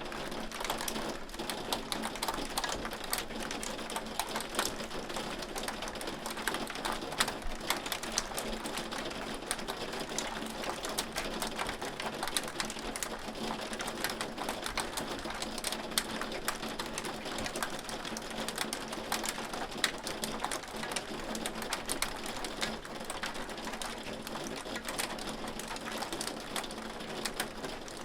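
Hail falling steadily, many small stones striking in a dense, irregular run of sharp clicks and ticks, with a faint steady hum underneath.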